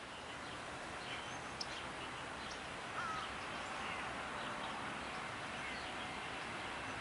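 Outdoor background noise with scattered small bird chirps, one a little louder about three seconds in.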